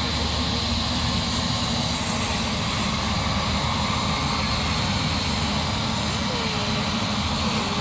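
Helicopter running close by: a steady, loud rotor and engine rumble with a constant high whine above it.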